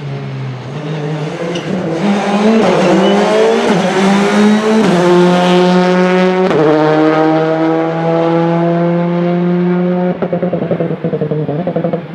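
Rally car engine pulling hard through the gears, its pitch climbing and stepping at each quick upshift. It then holds a steady high note before lifting off near the end with a rapid stuttering.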